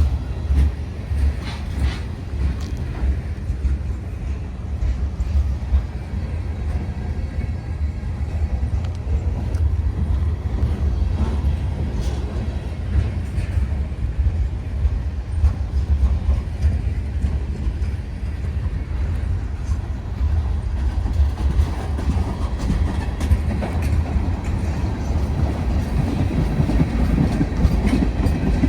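Union Pacific freight train rolling past: a steady low rumble with the clickety-clack of wheels over rail joints.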